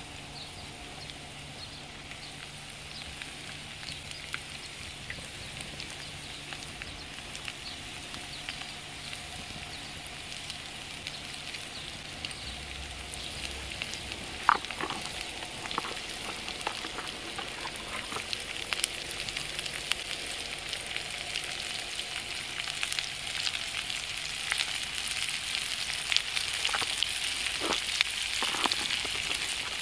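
Diced potatoes, onion and sausage sizzling in a frying pan over a wood-burning stove, the sizzle growing steadily louder, with scattered pops and clicks and one sharper click about halfway.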